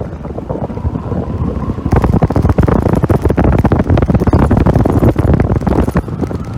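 Wind buffeting the microphone over a vehicle's running noise, becoming much heavier from about two seconds in, then easing off near the end.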